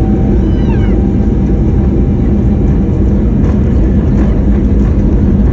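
Airbus A320neo's jet engines during takeoff, a loud steady rumble with a steady low hum through it.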